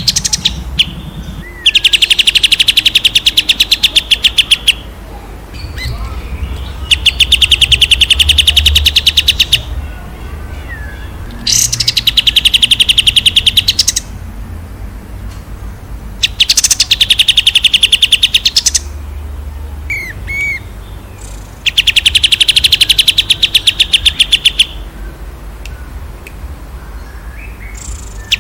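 A songbird singing long, fast trills of rapidly repeated notes, five of them, each lasting about three seconds, with short chirps in the gaps between.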